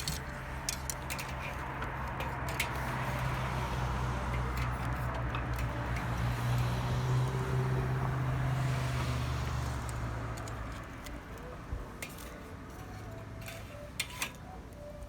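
A low engine drone that swells to a peak about seven seconds in and dies away by about eleven seconds, like a vehicle going by, with scattered sharp clicks and ticks.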